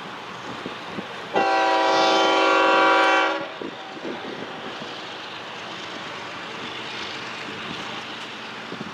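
Locomotive air horn sounding one blast of about two seconds, a chord of several steady tones, over a steady rushing noise of a passing train and wind.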